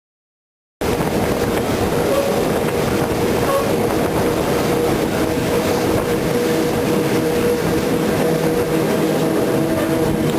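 Le Petit Train Jaune, an electric mountain railway train, running steadily on the rails: an even rumbling noise with a steady hum over it. It starts abruptly about a second in and cuts off suddenly at the end.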